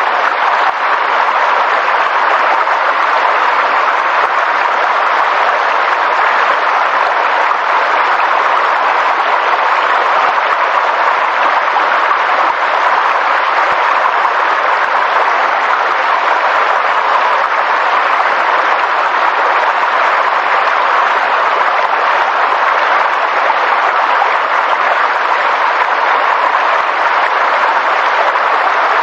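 A steady, unchanging hiss of natural ambience that stays even throughout, with no voice or music.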